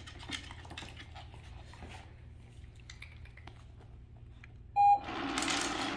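Treat & Train remote reward machine sounds a single short, loud beep about five seconds in, then its motor whirs as it dispenses a treat. Before that, only faint scattered ticks and clicks.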